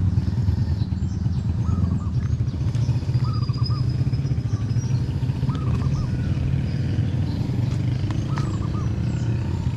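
A small engine running steadily with an even, low drone, while a bird gives short runs of chirps several times.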